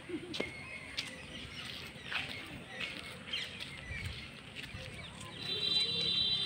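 Scattered bird chirps and calls with small clicks, and a steadier, higher call in the last second.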